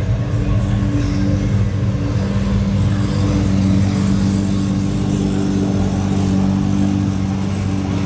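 A car engine idling steadily, with a low, even hum that holds without revving.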